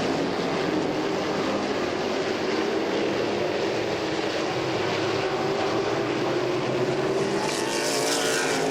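A pack of modified race cars running at speed around a short oval, a steady engine drone whose pitch climbs gradually in the second half.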